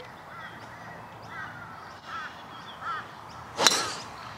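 A driver strikes a golf ball off the tee with one sharp crack about three and a half seconds in. Birds give short repeated calls in the background.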